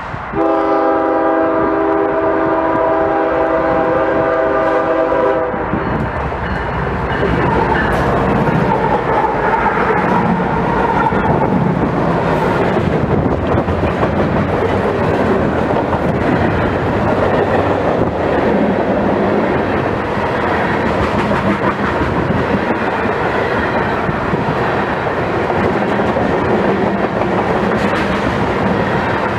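Train horn sounding one long blast of about five seconds, a chord of several tones, then the train passing close with steady wheel-on-rail noise.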